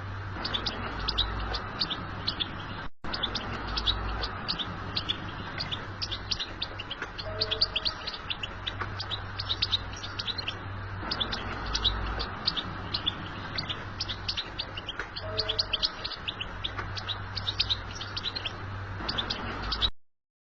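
European goldfinch song: rapid, continuous twittering chirps over a low steady hum, with a brief gap about three seconds in, cutting off abruptly near the end.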